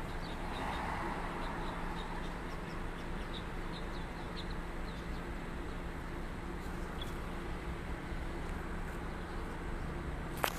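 Small birds chirping in short high notes, frequent in the first half and sparser later, over a steady low hum. A single sharp click comes near the end.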